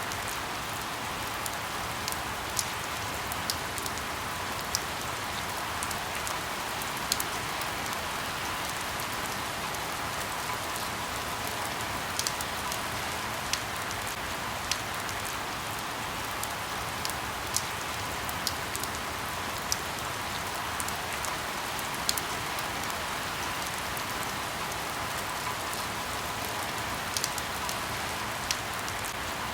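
Steady rain falling on leaves: an even hiss with scattered individual drops ticking sharply, about one every second or so.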